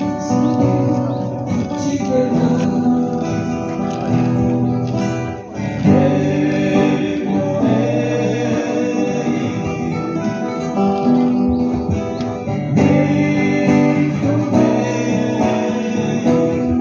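A song performed on guitar with a singing voice, the strings plucked and strummed under the sung melody.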